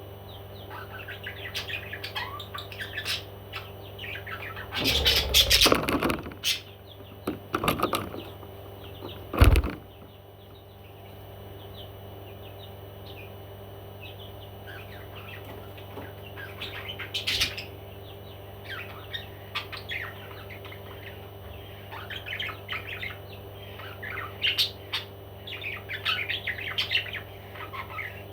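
A pet parrot chirping on and off, with a burst of wing flapping about five seconds in and a single sharp knock near ten seconds, over a steady low hum.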